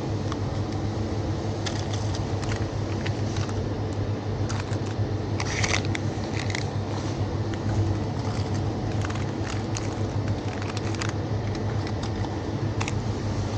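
Outdoor street ambience: a steady low rumble with scattered, irregular crunching clicks over it.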